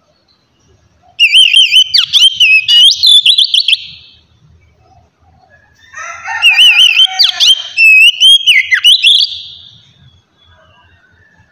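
Oriental magpie-robin (kacer) singing loud whistled phrases mixed with rapid warbles, in two bursts: one starting about a second in, the other about six seconds in.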